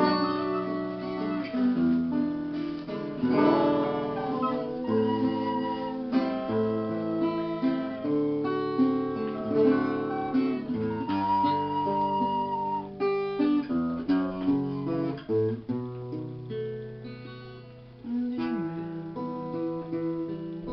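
Acoustic guitar playing an instrumental passage of plucked notes, with a high held note about eleven seconds in.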